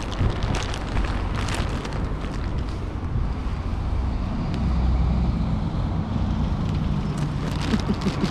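Wind buffeting the microphone over a steady low traffic rumble, which swells for a few seconds around the middle as a vehicle passes, with a few faint clicks.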